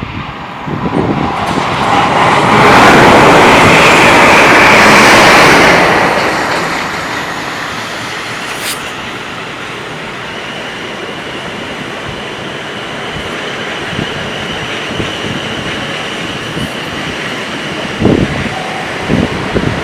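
A train passing at speed: a loud rushing swell for a few seconds, easing into a steady rumble of wheels on rail with a faint high steady tone over it.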